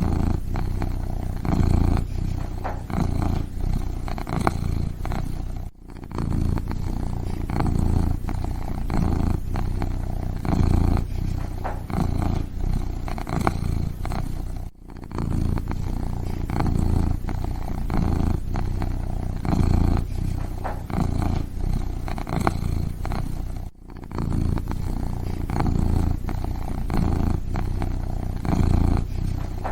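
Kitten purring steadily close up, a continuous low, rapidly pulsing rumble that breaks off briefly about every nine seconds.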